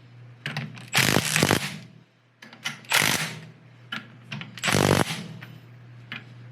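A wrench running in the ring gear bolts on a differential carrier in three short rattling bursts about two seconds apart, with light clicks between them.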